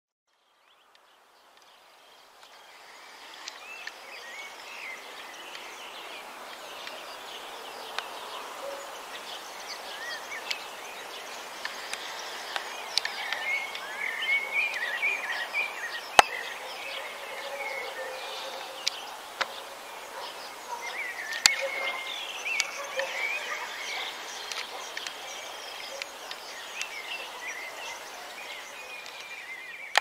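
Birds chirping and singing over a steady outdoor hiss, which fades in over the first couple of seconds. Two sharp clicks come about five seconds apart in the middle.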